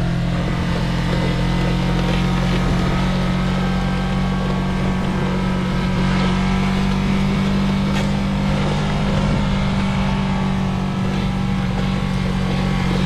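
Yamaha motorcycle engine running at a steady throttle, its pitch held level with no revving up or down.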